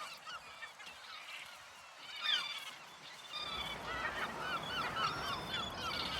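A large flock of seagulls calling over one another: many short, overlapping cries, with a loud burst about two seconds in. The calling grows louder from about three and a half seconds, joined by a low rushing noise.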